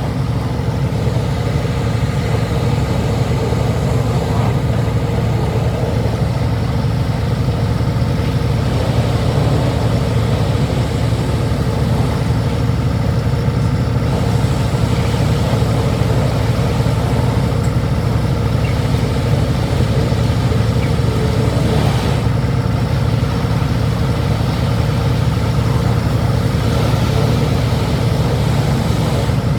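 Logging truck's diesel engine running at a steady, unchanging pitch, a loud low hum with no revving.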